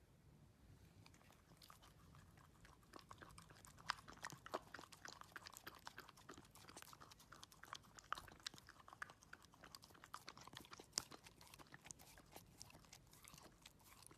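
A dachshund chewing and crunching food: a quick, irregular run of faint crunches and clicks that grows busier after about two seconds.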